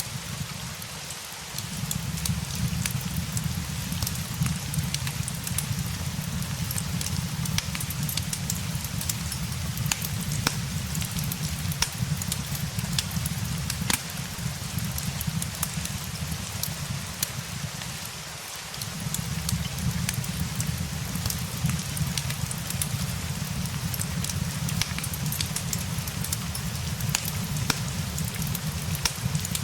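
Steady rain hiss mixed with the frequent crackles and pops of a wood fire, over a low rumble that drops away briefly twice, about a second and a half in and again around eighteen seconds.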